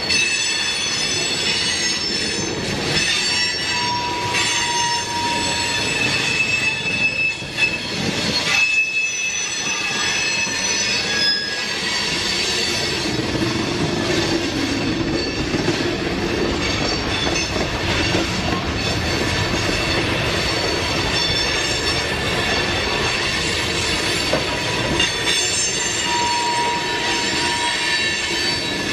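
Freight train of open-top gondola cars rolling past, steel wheels squealing on the rails over a steady rumble. Several high squealing tones come and go.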